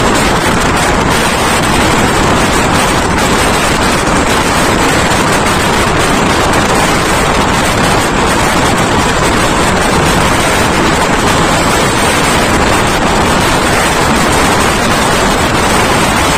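Passenger train running at speed: a steady, loud rush of wind and running noise.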